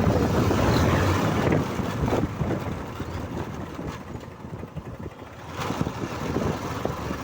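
A Hero Karizma ZMR motorcycle under way, its engine running under wind rush on the microphone. The sound is loudest for about the first two seconds, then eases off.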